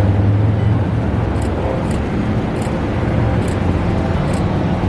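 Falls Incline Railway funicular car running up its incline: a steady low hum with five faint high ticks spread through the ride.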